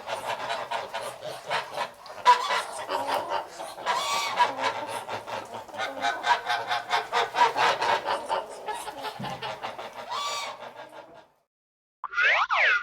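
Flock of barnyard fowl clucking rapidly and continuously, a dense chatter of calls. It cuts off about eleven seconds in. After a short silence comes a brief separate sound made of gliding tones.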